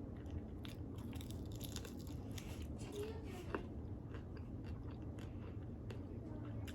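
Close-up chewing and biting into crispy air-fried lemon pepper chicken wings, with many short scattered crunches over a steady low hum.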